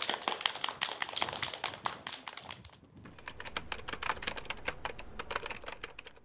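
Small audience clapping: many quick, irregular hand claps. The clapping thins briefly about two and a half seconds in, then picks up again.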